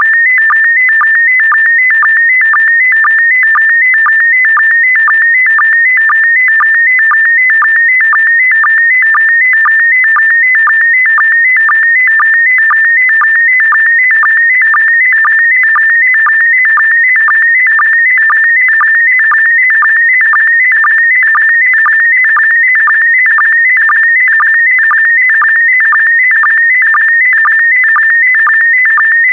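Slow-scan TV signal in PD120 mode: a high, warbling electronic tone whose pitch shifts with the picture's brightness, broken about twice a second by a short, lower sync blip that marks the start of each new pair of scan lines.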